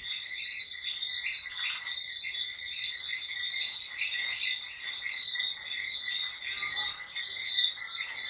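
Crickets chirring steadily, a high pulsing trill several times a second, with the faint rubbing of hands working a hair mask through wet hair.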